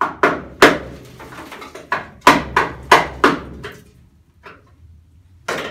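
Hammer blows on the steel scuttle panel of a 1964 Mk1 Mini body: a quick run of about nine sharp bangs in the first four seconds, then one more near the end.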